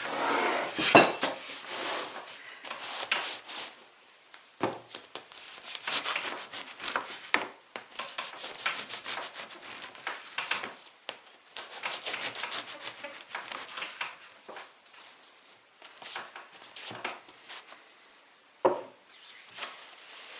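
Irregular scraping and rubbing, with a few sharp knocks: one about a second in, one near five seconds and one near the end.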